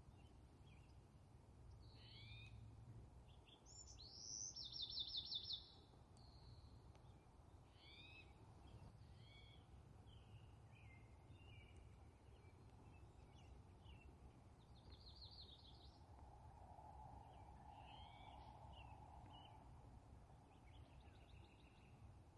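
Faint outdoor birdsong: small songbirds chirping, with a rapid trill about four seconds in that is the loudest sound, and shorter trills later. A low steady rumble lies underneath.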